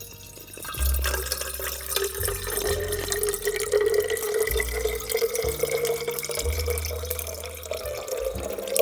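Liquid pouring steadily into a container, a faint tone in it slowly rising as it fills, over background music with a low bass line.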